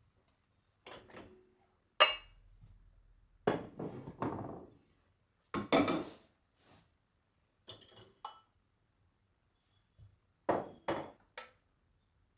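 Dishes and cutlery being handled: a string of separate clinks and knocks, with short scraping sounds between them. About two seconds in, one sharp clink rings on briefly.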